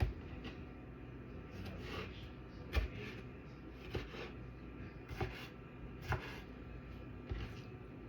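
Kitchen clatter while cooking: a series of separate sharp knocks and clunks, about one a second, over a low steady hum in a small room.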